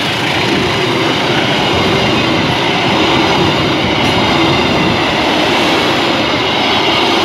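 Passenger train coaches passing at close range: steel wheels running over the rails, a loud, steady noise.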